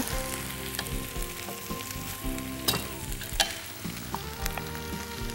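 Oxtail and vegetables sizzling in a frying pan as dry elbow macaroni is added, with two sharp clicks around the middle.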